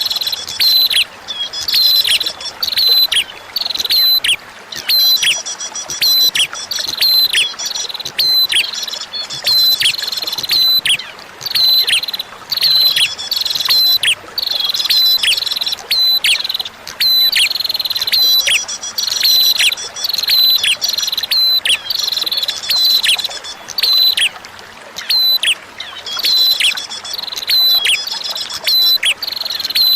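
A prinia (prenjak) singing a fast, continuous series of sharp descending chirps, about two a second, broken by short buzzy trills, over a faint steady sound of running water.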